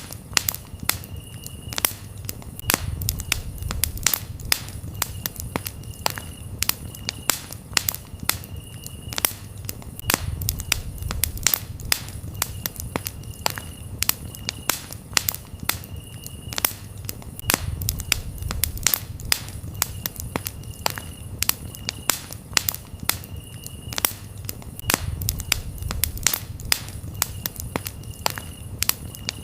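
Campfire wood crackling with constant sharp pops and snaps, over a low rumble of flames that swells every seven or eight seconds. A cricket trills at a high pitch in steady stretches with short breaks.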